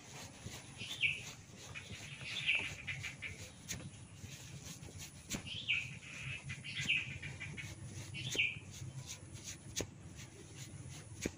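A bird calling with short, downward-sliding chirps, repeated about every second and a half, over scattered sharp clicks and a low steady rumble.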